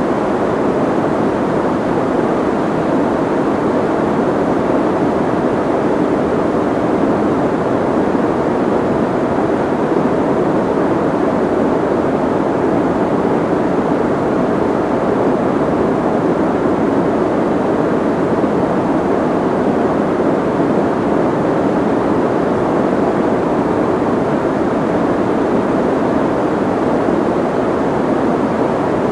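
Steady soft white noise, a muffled, even rush without a sharp high hiss.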